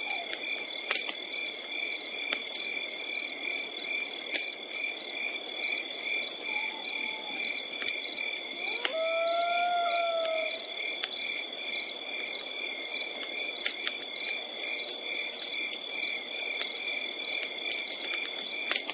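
Night forest ambience: crickets chirping in a steady, even rhythm over a continuous high insect trill, with scattered sharp crackles and pops from a campfire. A single drawn-out animal call sounds about halfway through.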